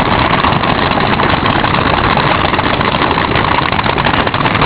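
Many paintball markers firing at once in a dense, continuous crackle of rapid pops.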